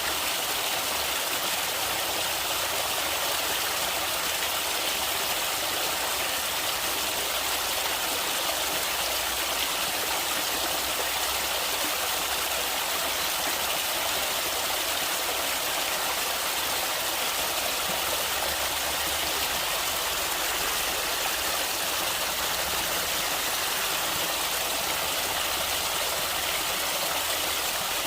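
Stream water flowing and splashing over rocks in a steady, even rush.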